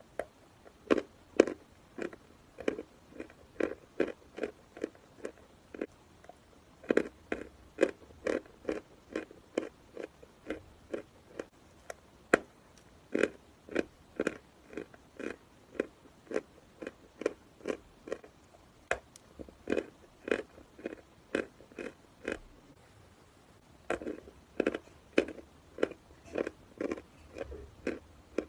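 A person chewing dry chalk: a steady run of crunches, about two to three a second, pausing briefly twice.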